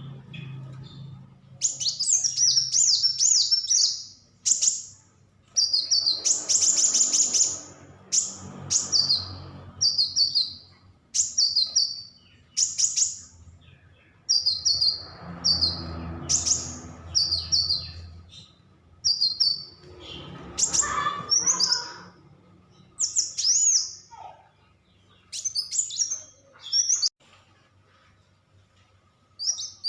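A caged songbird singing a series of short, loud phrases of fast high chirps and trills with brief pauses between them. The phrases vary, the kind of varied 'tembakan' and 'roll' song used in masteran recordings to tutor other birds.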